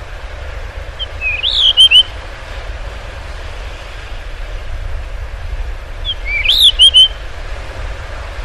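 Blue rock thrush giving two short phrases about five seconds apart, each a quick run of rising and falling notes, over a steady low rumble.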